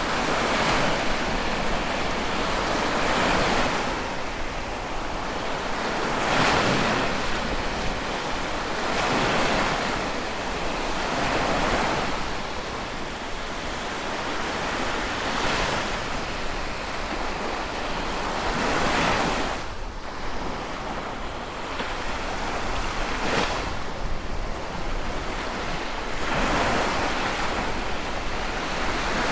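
Sea waves washing onto a shore, a swell of surf breaking every three to four seconds over a steady hiss of water.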